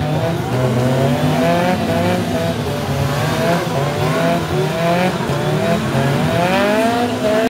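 Toyota AE86 Corolla engine revving hard in a burnout, its pitch climbing and dropping again and again as the rear tyres spin on wet concrete, with tyre noise underneath.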